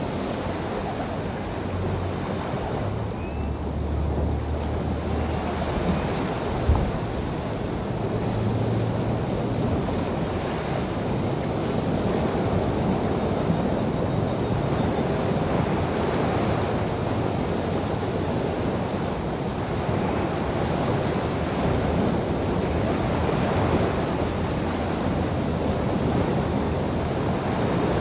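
Sea waves washing onto a shore in a continuous surf that swells and eases, with wind buffeting the microphone in low rumbles during the first several seconds and a single sharp knock about seven seconds in.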